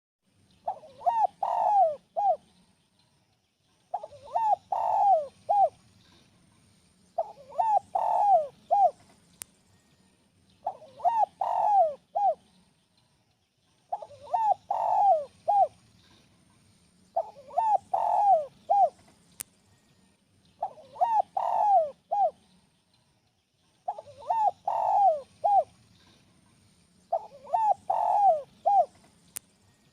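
Spotted dove cooing, a phrase of four or five coo notes repeated about every three to three and a half seconds with short pauses between.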